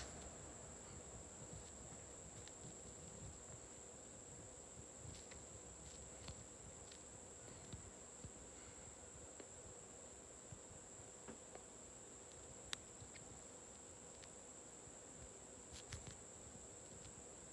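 Near silence: room tone with a faint steady high-pitched whine and a few soft scattered ticks.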